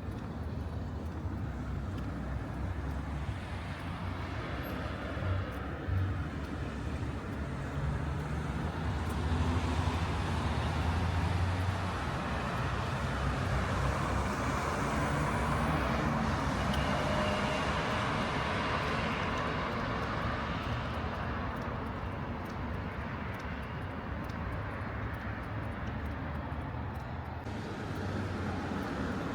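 City street traffic: the steady noise of passing vehicles, swelling to a peak in the middle and fading again toward the end.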